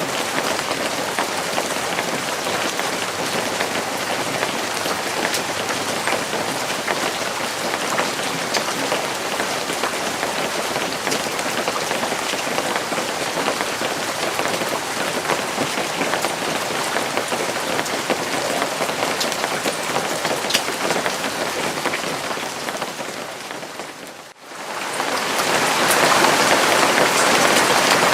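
Steady rain falling, dense and even, with scattered sharper drop hits. About three-quarters of the way through it fades out for a moment and comes back louder.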